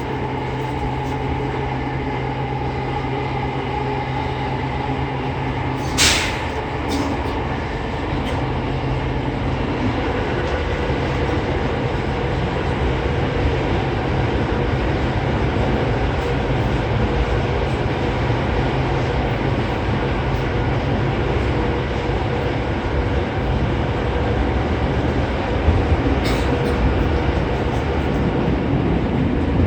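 Running noise inside an E231 series 800-subset commuter train in a subway tunnel: a steady rumble of wheels on rail. A low steady hum drops out about six seconds in, with a sharp click there and another near the end.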